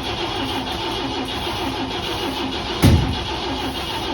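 Car engine running steadily, with one loud low thump about three seconds in.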